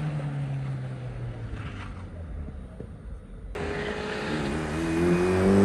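A drag-racing car's engine note falls in pitch and fades away. About three and a half seconds in the sound changes abruptly, and then an engine rises steadily in pitch and grows louder as it accelerates.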